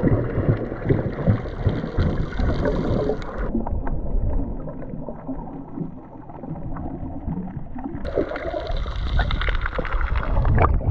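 Water splashing and gurgling around a snorkeler, with many small knocks and clicks. It turns muffled for about four seconds in the middle, then comes back clear.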